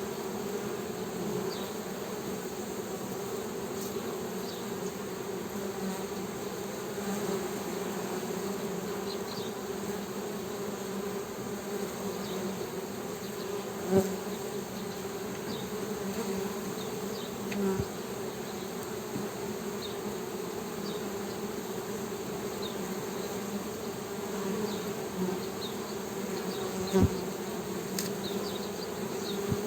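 Honey bees humming: a steady, low buzz of wingbeats, with a few brief louder swells.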